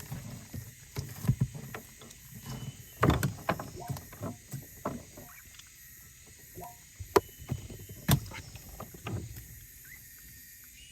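Irregular knocks and thumps of gear being handled in a small river boat, the sharpest about three, seven and eight seconds in.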